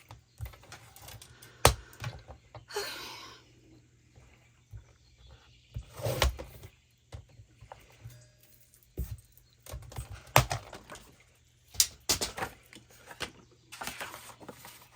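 Paper-crafting handling sounds: scattered sharp taps and knocks of paper and tools on a desk, with a short scraping cut about three seconds in as a photo mat border is trimmed down.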